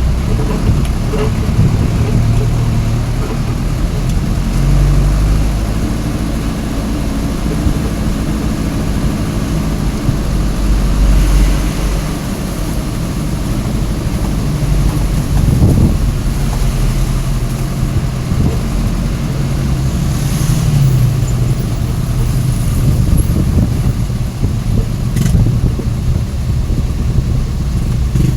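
Truck engine running with a low drone whose pitch rises and falls several times, over a steady rush of road and wind noise.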